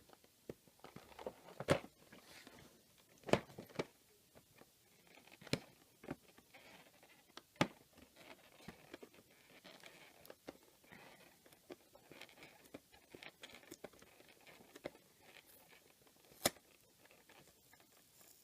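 Cardboard toy box being worked open by hand: irregular sharp clicks and snaps with crinkling and tearing of the packaging, the loudest snaps a few seconds apart.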